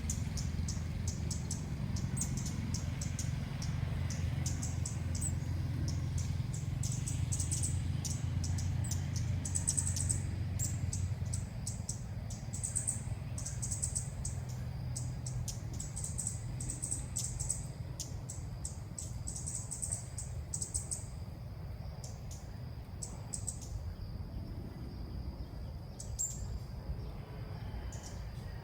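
Red-whiskered bulbuls chirping: many short, high calls in quick runs, thinning out in the last third, over a steady low rumble.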